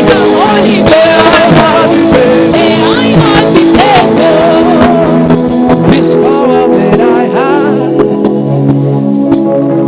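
Worship music: voices singing over sustained instrumental chords. The singing thins out after about six seconds, leaving mostly the held chords.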